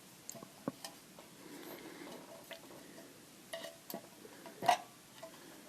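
Light, irregular taps and clicks of small hard objects being handled, with one louder knock with a short ring about three-quarters of the way through.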